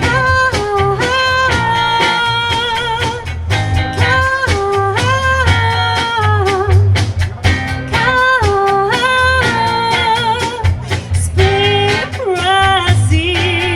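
Live funk band playing: a melodic lead line of held and sliding notes over bass and drums, with a wavering held note near the end.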